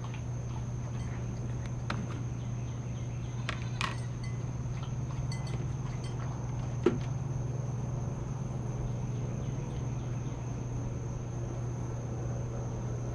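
Insects chirping in a steady high tone over a steady low hum, with a few light clicks and one sharper tap about seven seconds in.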